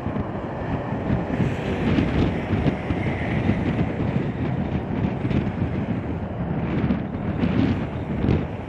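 Strong, gusty wind buffeting a Canon XA50 camcorder's built-in microphone, making an uneven low rumble that rises and falls from gust to gust.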